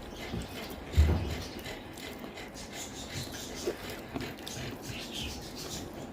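Close-up chewing and mouth sounds of someone eating rice and chicken curry: small irregular wet clicks, with one soft low thump about a second in.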